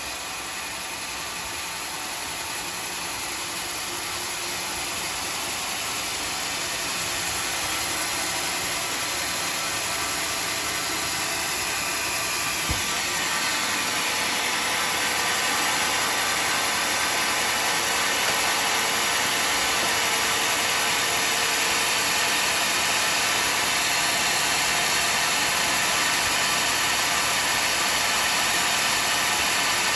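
Homemade band sawmill running, a steady mechanical noise that slowly grows louder over the first half and then holds level, with one sharp click about halfway through.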